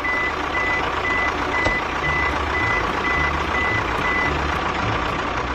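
Vehicle reversing alarm beeping steadily about twice a second over a constant engine rumble; the beeping stops about four seconds in.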